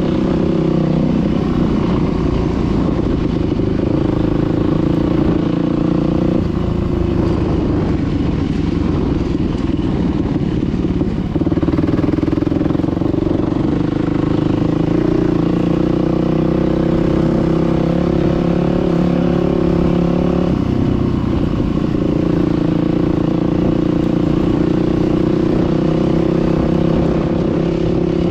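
Dirt bike engine running under way, its pitch stepping up and down a few times as the throttle changes.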